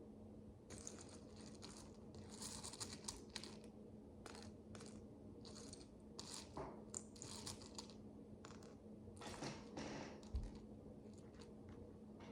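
Tiny plastic micro bricks being handled and pressed together: a string of faint clicks and light rattles in little clusters, over a faint steady hum.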